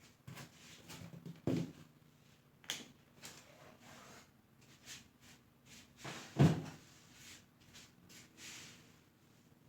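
Handling noises from work on a bench: scattered clicks, taps and rustles, with two louder thumps about a second and a half in and about six and a half seconds in.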